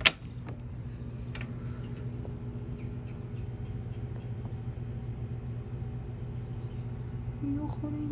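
A sharp click right at the start, then a steady low hum. Near the end a pigeon starts a low, wavering coo.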